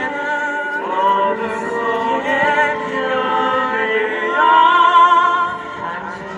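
A slow song with a singing voice holding long notes with vibrato over the accompaniment.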